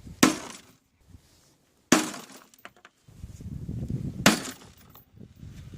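Axe blows on a lawnmower, three heavy crashing strikes roughly two seconds apart.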